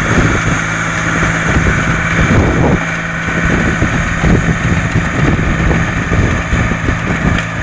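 BJR Samurai 60 articulated compact tractor running steadily while working a rotovator, with wind buffeting the microphone in irregular low gusts.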